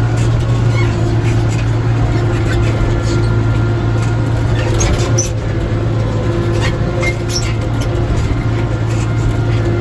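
Tractor engine running at a steady speed, a constant low drone with scattered light rattles and clicks.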